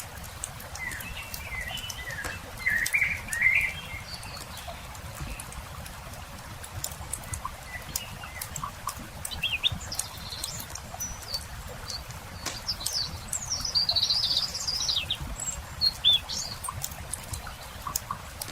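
Songbirds chirping and singing in a few short bursts over the steady pops and crackle of a wood campfire.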